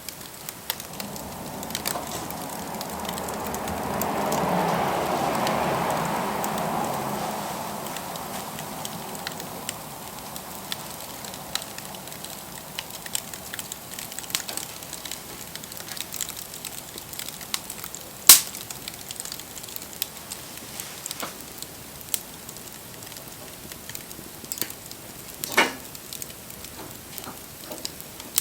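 Wood fire burning, crackling with scattered snaps and pops. A swell of rushing noise rises and fades over the first ten seconds, and one loud, sharp pop comes about 18 seconds in.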